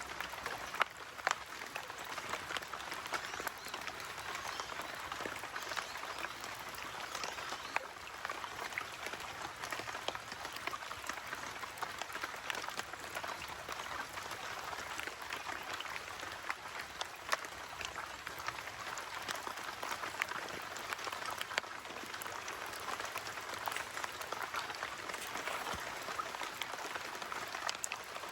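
Steady rain pattering, with many separate drop ticks.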